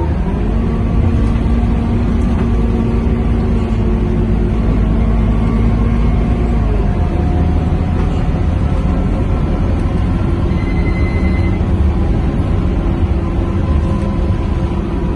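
Scania K230UB bus running, heard from inside the passenger cabin: a steady low engine and road rumble with several whining tones held over it, which drop and change pitch about seven seconds in.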